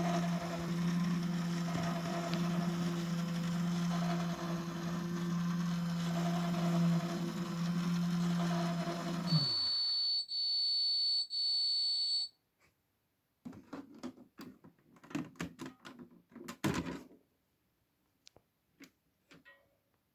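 Microwave oven running with a steady low hum, which stops about nine and a half seconds in. Three high beeps follow, signalling the end of the heating cycle, then a few seconds of clicks and knocks.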